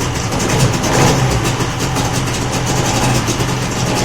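Mariner 25 hp outboard motor running steadily, having just caught on the pull-start with the choke off and the throttle open.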